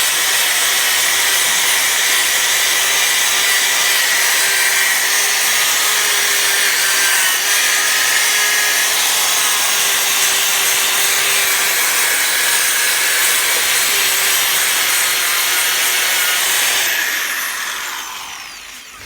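Electric drill spinning a plastic brush against burnt-on apple crust inside a stainless steel pot: a loud, steady scrubbing rasp over the drill's motor. Near the end the drill is let off and winds down.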